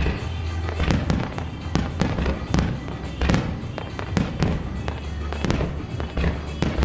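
Aerial firework shells bursting one after another, a string of sharp booms about one or two a second, each trailing off in echo, over music from the show's sound system.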